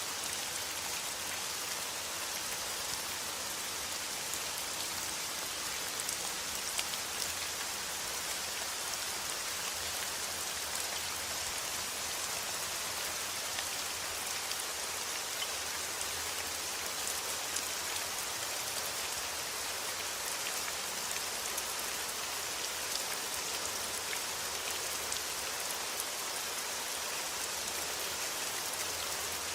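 Steady rain falling on a surface: an even, unbroken hiss with scattered louder drop ticks.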